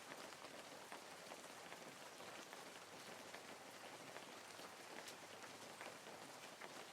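Faint rain: a soft, even hiss scattered with small ticks of drops.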